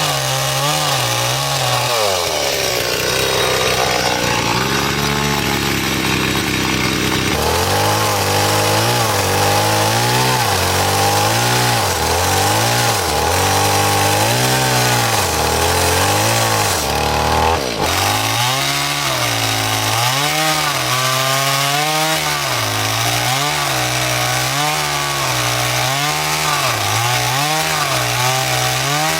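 Two-stroke chainsaw cutting through timber, its engine pitch dipping and rising about once a second as the chain bites into the wood. The sound changes abruptly twice.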